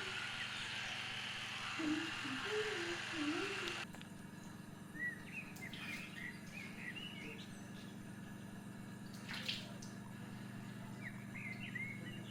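Steady hiss of running water with a few low wavering calls for about the first four seconds; then it cuts off abruptly to a quieter background with a low hum, where a small bird chirps in short high rising and falling notes, with a couple of sharp clicks.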